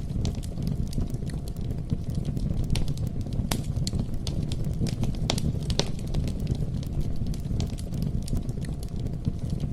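Wood campfire burning with a steady low rumble, broken by sharp crackles and pops at irregular moments.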